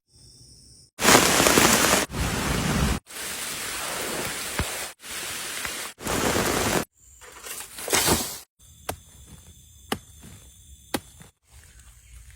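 Heavy rain hissing loudly, in abrupt clips a second or two long cut one after another. About seven seconds in it gives way to quieter forest ambience with a steady high-pitched hum and a few sharp knocks.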